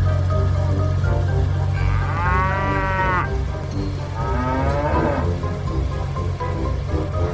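Cartoon cow mooing sound effect, two drawn-out moos, over upbeat children's background music.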